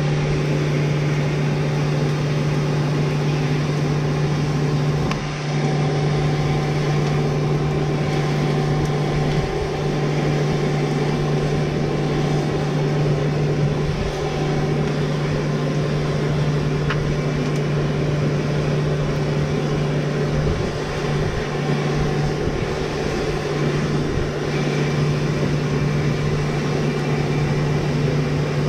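Steady machine drone: a low, even hum over a rushing air-like noise that holds unchanged throughout.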